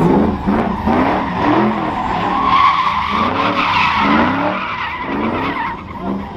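Vehicle tires squealing, loudest through the middle of the stretch.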